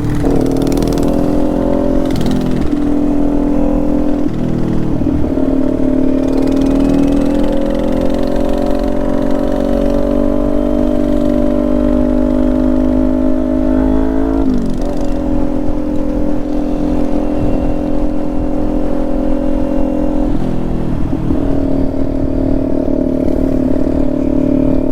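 Motorcycle engine running under way, its pitch climbing slowly under steady throttle, then dropping sharply about halfway through and dipping again near the end, as with a gear change or easing off the throttle. A low rumble of wind and road lies underneath.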